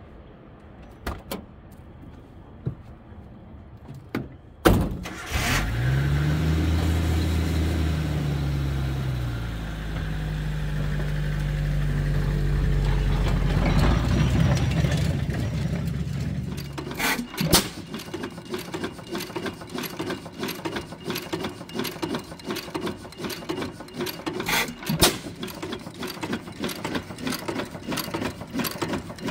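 A car door shuts, then the Suzuki Samurai's engine starts, revs briefly and runs steadily for about twelve seconds until a sharp knock. After that comes a fast, even mechanical clicking and rattling.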